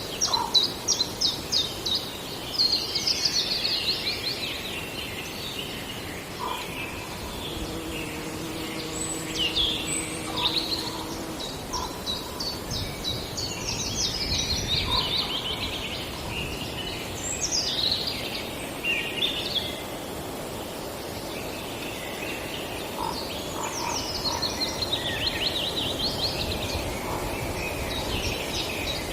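Several forest songbirds singing in overlapping phrases of rapid trills and chirps, coming in bouts with short pauses between, over a steady background hiss of the woodland.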